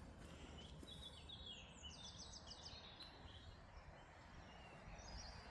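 Faint birdsong over quiet outdoor background noise: a run of quick, high notes from one or more small birds about a second in, lasting a couple of seconds, and a short phrase near the end.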